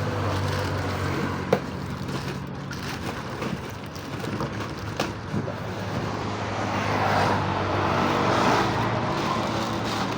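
An engine running steadily, with one sharp click about a second and a half in.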